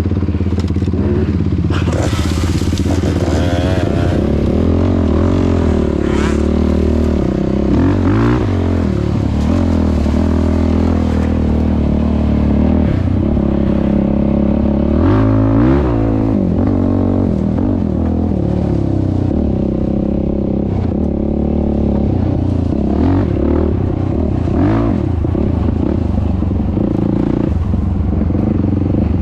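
Yamaha YFZ450R quad's single-cylinder four-stroke engine running through a Rossier R5 aftermarket exhaust while being ridden, the revs rising and falling again and again. A few brief knocks come through along the way.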